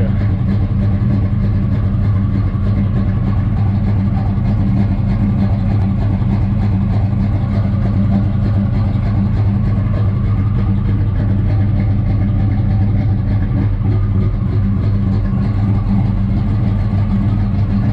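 Chevy Nova's 350 small-block V8 with a big cam idling steadily.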